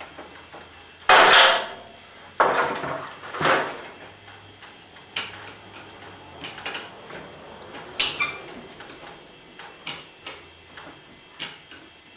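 Clatter and knocks of hands-on work on garage door hardware: three loud scraping knocks in the first few seconds, the loudest about a second in, then a run of lighter clicks and taps.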